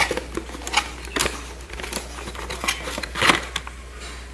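Packaging and small parts being handled during an unboxing: a run of light clicks and rustling that ends with a louder rustle about three seconds in, then it goes quieter.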